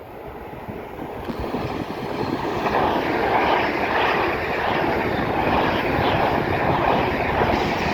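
Train running along the platform, a rushing noise that builds over the first three seconds and then stays loud.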